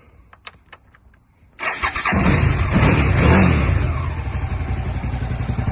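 A 2003 Suzuki SV650's V-twin engine being started: a few clicks, then about a second and a half in the starter cranks and the engine catches, gives a short rev up and back down, and settles into a steady idle.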